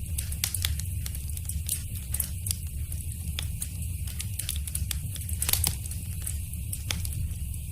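Wood fire crackling in a fireplace: irregular sharp pops and snaps over a steady low rumble, the loudest cluster of pops about five and a half seconds in.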